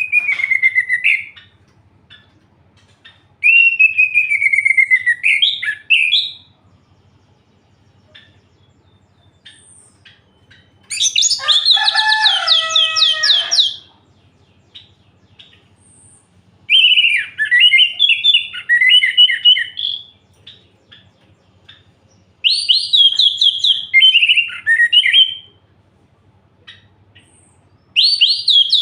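Orange-headed thrush singing: loud phrases of rapid, varied whistled notes about two to three seconds long, repeated six times with pauses of a few seconds between them. The phrase about halfway through goes lower and fuller than the others.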